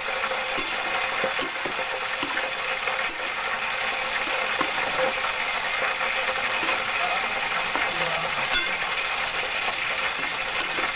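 Sautéed green papaya and sardines sizzling steadily in a pan, with a few sharp clicks of a utensil against the pan.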